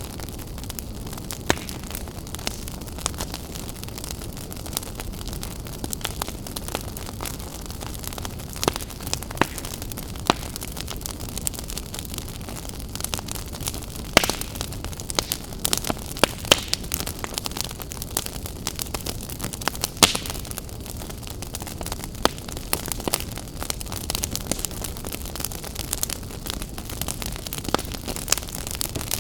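Open wood fire burning: a steady low roar of flames with frequent sharp crackles and pops from the burning logs.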